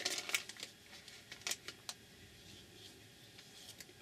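Light clicks and taps from handling craft materials on a work table: a quick run of them at the start, then a few scattered single clicks over a quiet background.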